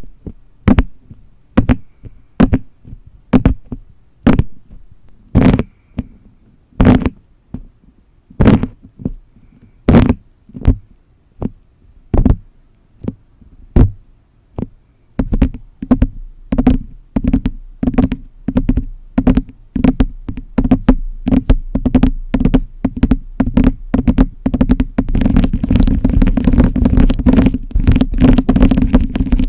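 Tapping on decorative tiles. The taps are slow and evenly spaced for about the first half, then come quicker and denser, and build into a rapid patter with a scratchy rustle near the end.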